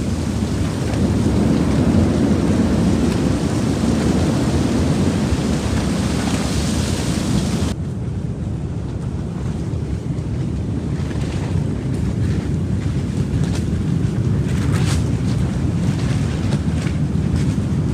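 Strong gale wind blowing and buffeting the microphone in a dense, steady rush. The sound shifts abruptly about eight seconds in, then scattered sharp snaps and ticks join the wind.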